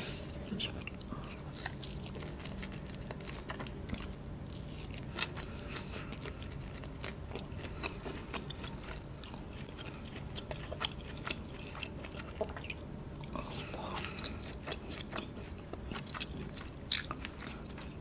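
Close-up chewing of tender roast lamb meat, with many small wet mouth clicks and smacks scattered throughout. A faint steady low hum runs underneath.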